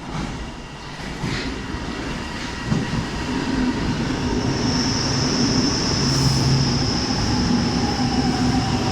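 Leonardo metro train pulling into the station, its running noise growing steadily louder. From about halfway through, a steady high-pitched squeal comes in, and a lower whine falls slightly in pitch as the train slows.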